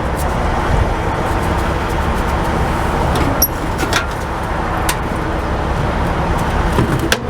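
Steady low rumble of idling trucks and road traffic, with a few sharp clicks and knocks.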